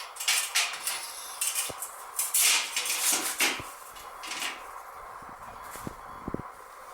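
Metal parts clattering and scraping as they are handled, a run of short scratchy scrapes, loudest about halfway through, with a few small knocks near the end.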